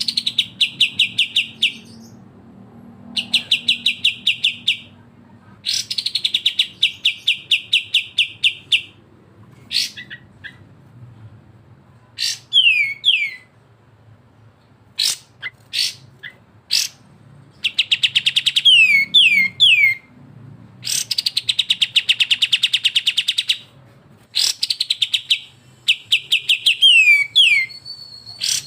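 Kapas tembak and cucak jenggot songbirds in a masteran recording, singing "besetan": loud bouts of a fast, rattling trill of repeated notes, each a second or three long. Between the bouts come a few quick, steeply falling whistles and sharp single chips.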